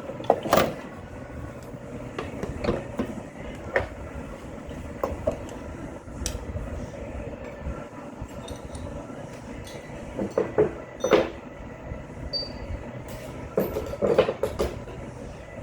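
Hand tools and metal engine parts clanking and knocking irregularly while brackets are worked loose from an engine, with a steady low rumble underneath.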